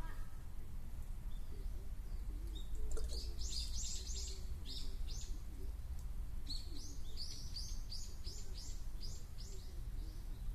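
A small bird singing two quick runs of high, repeated chirps, the first starting about three seconds in and the second about six and a half seconds in, over a steady low hum.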